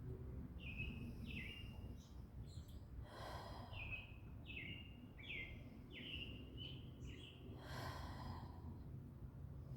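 A songbird singing a series of short, downward-slurred whistled notes: two early on, then a quick run of about six. Two audible exhaled breaths come in between, over a faint low outdoor background.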